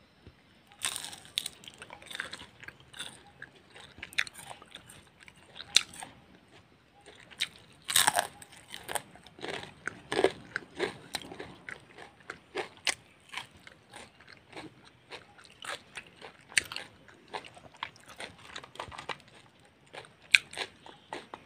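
Crisp, irregular crunching from someone biting and chewing fried onion pakoras, starting about a second in.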